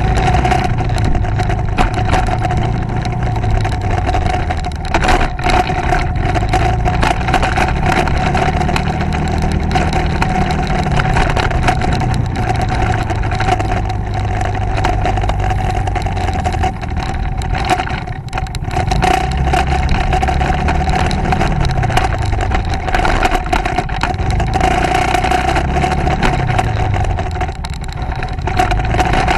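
Motorcycle engine running under way, its pitch rising and falling several times as the bike speeds up and eases off. It sits over a constant rush of noise, with a steady high whine.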